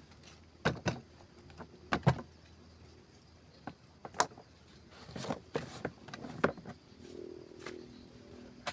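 A series of irregular sharp clicks and knocks, about a dozen, scattered unevenly, with faint rustling between them.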